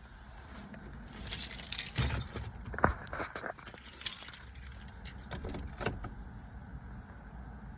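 Keys jangling in several short bursts, with a few sharp clicks among them.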